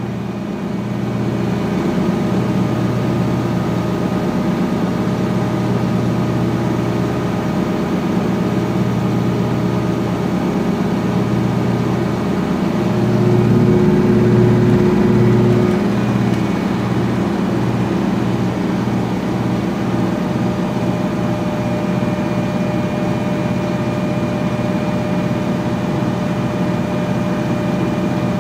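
2006 GE Profile Harmony top-load washer in its final high-speed spin: a steady motor hum and whine with a low pulsing throb from the spinning basket, which swells briefly about halfway and pulses faster later on.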